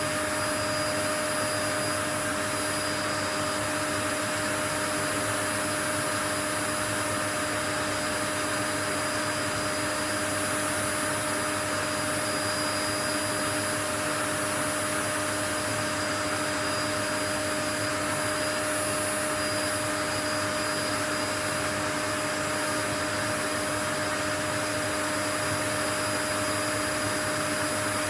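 Continuous white noise: an even, unchanging hiss with a few faint steady tones running through it, like an appliance motor.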